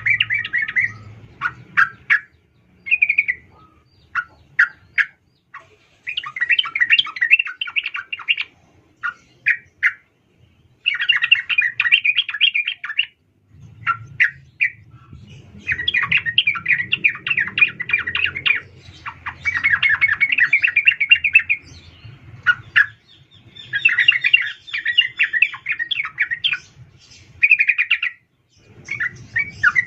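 Female yellow-vented bulbul (trucukan) giving her call to the male: runs of rapid chattering notes, each run lasting one to three seconds, broken by short single notes and brief pauses.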